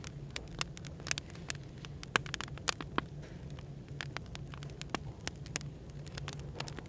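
Burning firewood crackling, with irregular sharp pops and snaps, over a steady low hum of background white noise.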